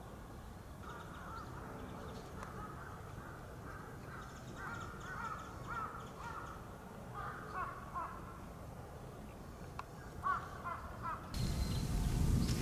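A bird calling repeatedly in short runs of arching notes, with a faint steady background. A louder low rumble comes in near the end.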